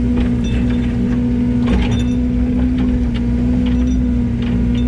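Yanmar ViO80 excavator's diesel engine running at a steady speed with a constant hum, with a couple of brief clatters near the middle and near the end.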